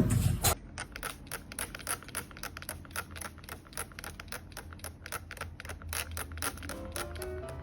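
Rapid, irregular light clicking or tapping, several clicks a second, with soft music coming in near the end.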